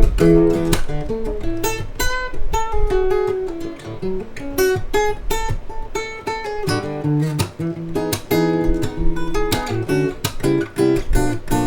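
Seagull S6 Spruce Sunburst GT acoustic guitar being played: strummed chords, then single picked notes for a few seconds, then chords again from a little past the middle.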